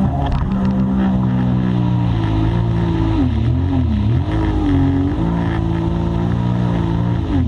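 Jet ski engine running at speed, its pitch rising and falling several times as the throttle is worked.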